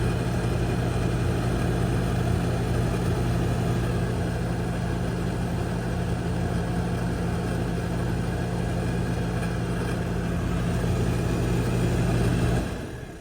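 Newly installed bathroom exhaust fan running: a steady whoosh of air over a low motor hum. It is switched off near the end and the sound dies away.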